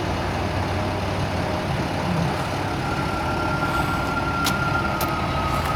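Diesel locomotives of a CSX freight train running, a steady low engine rumble with a faint thin steady tone joining about three seconds in and two sharp clicks near the end.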